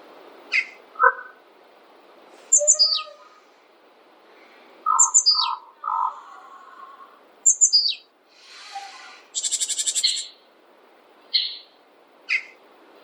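Songbirds singing and calling: short chirped phrases, several starting high and dropping quickly in pitch, repeating every two to three seconds, with a brief buzzy trill near the end, over a steady background hiss.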